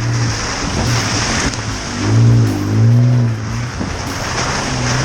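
Pickup truck driving slowly over a rough, rocky dirt road, heard from inside the cab: steady engine and road noise with scattered knocks, and the engine revving up and back down twice about two and three seconds in.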